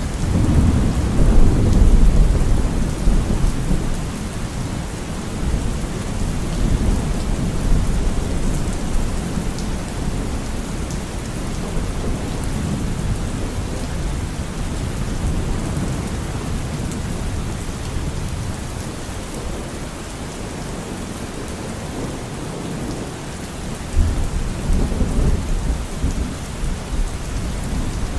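Steady rainfall with rolling thunder: a long low rumble swells in the first few seconds and fades, and another comes in about 24 seconds in.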